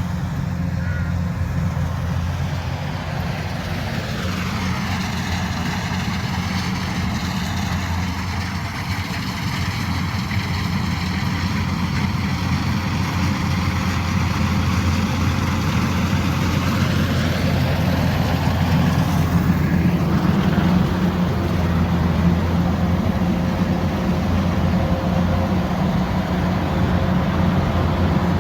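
Kubota DC-108X combine harvester's diesel engine running steadily under load, growing a little louder after about eighteen seconds.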